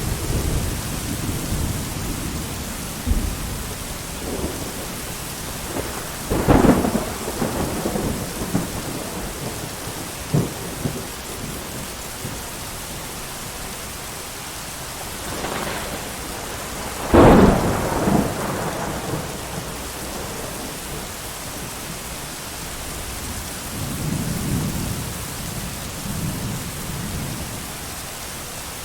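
Steady heavy rain with thunder: two loud cracks that roll off into rumbles about six and seventeen seconds in, smaller claps between, and a softer low rumble near the end.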